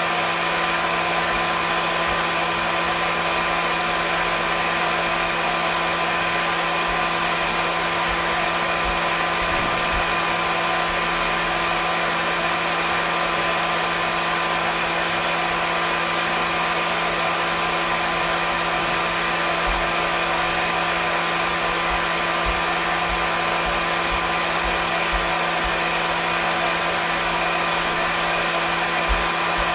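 Hair dryer running steadily: an even rush of blown air over a constant motor hum that does not change.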